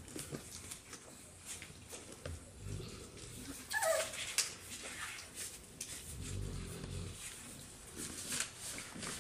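Mastiff puppies playing: scuffling and small knocks, a short high yelp that falls in pitch about four seconds in, and low growling.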